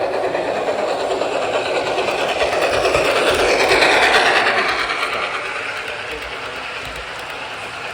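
Model train running past on the layout, its motor and wheels on the track growing louder to a peak about four seconds in, then fading as it moves away.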